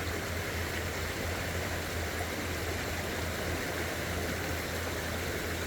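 Steady rush of flowing creek water, even and unbroken.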